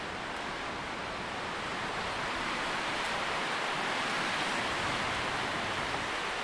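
Tree leaves rustling in the wind in a steady rush that swells louder near the middle as a gust passes, then eases off.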